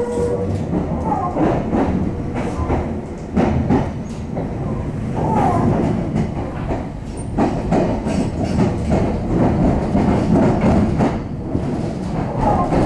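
Meitetsu electric train running, heard inside the passenger car: a steady low rumble with the wheels clattering over the rail joints.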